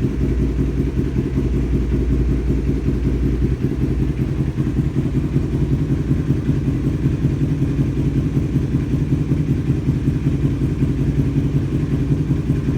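Yamaha R25's parallel-twin engine idling steadily through a Sakura aftermarket exhaust after a cold start, with a deep, even exhaust note and no revving. The lowest part of the note eases slightly about three and a half seconds in.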